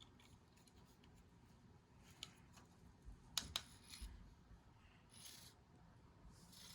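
Faint cat-toy play sounds in a quiet room: a few sharp clicks, two of them close together in the middle, then two short rustling swishes near the end.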